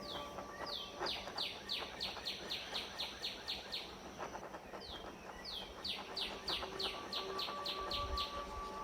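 A songbird singing two phrases of rapid, repeated down-slurred whistled notes, about four a second, with a short pause between the phrases.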